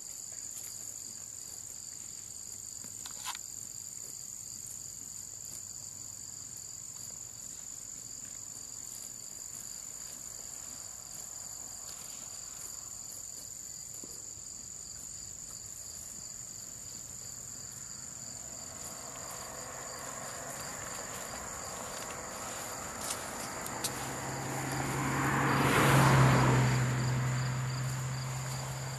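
Steady chorus of insects chirping at two high pitches throughout. From about two-thirds of the way in, a motor vehicle approaches and passes with a low engine hum, loudest near the end, then fades.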